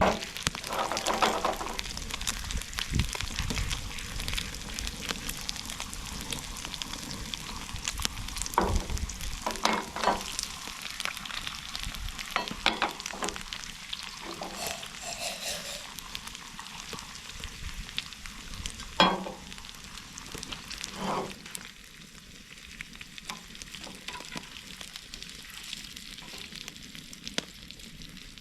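Buffalo burgers sizzling on a camp grill over a campfire, a steady crackling fry, with a few short knocks along the way, the sharpest about two-thirds of the way through.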